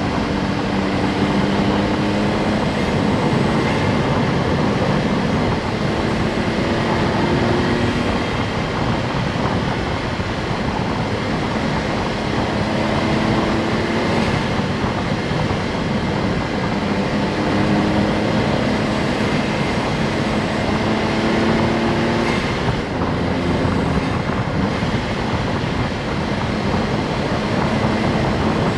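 Honda S660's turbocharged three-cylinder engine pulling under load, its note rising slowly and then dropping back several times as it changes up through the gears, over a steady bed of road and tyre noise.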